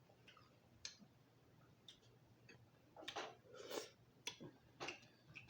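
Faint, scattered wet mouth clicks and smacks of someone chewing lobster meat, about eight short sounds, clustered near the middle.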